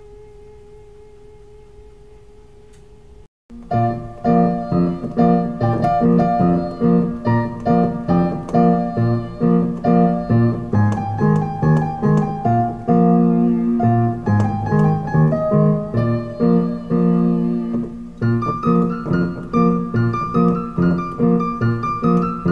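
Background piano music. A held chord fades for about three seconds and breaks off, then a steady, rhythmic run of repeated piano notes and chords plays.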